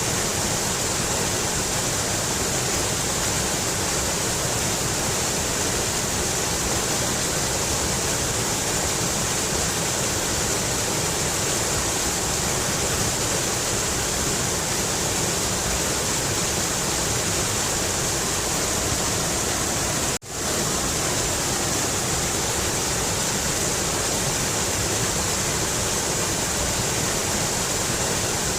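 A mountain river rushing steadily, a dense, unbroken hiss of water. The sound drops out for a split second about two-thirds of the way through, then comes straight back.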